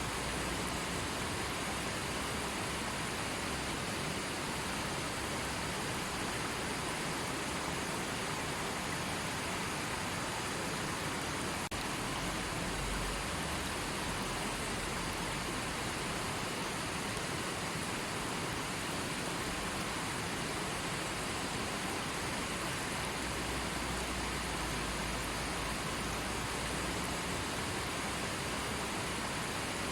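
River water rushing and burbling steadily.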